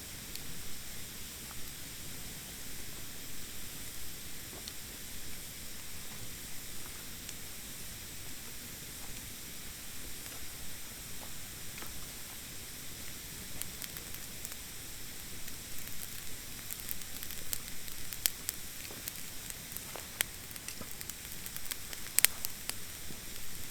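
Campfire of damp, green thin branches burning with a steady hiss and sharp crackling pops, the pops coming more often in the second half.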